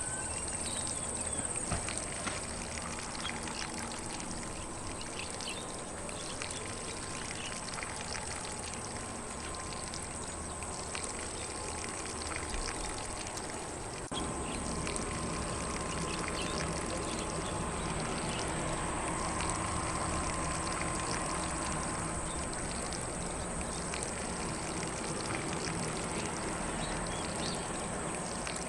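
Lawn sprinkler spraying water steadily across grass, an unbroken hiss that grows a little louder about halfway through, with faint birdsong behind it.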